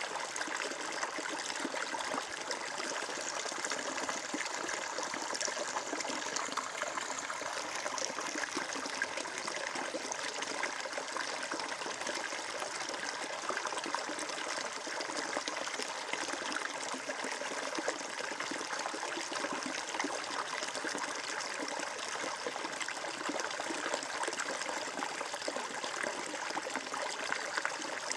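Water flowing and trickling steadily, like a small stream running over stones, with a constant fine splashing and babbling.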